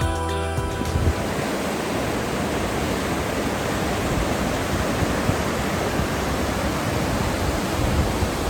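Steady, even rushing noise, spread evenly from low to high pitches, with no rhythm or tone in it.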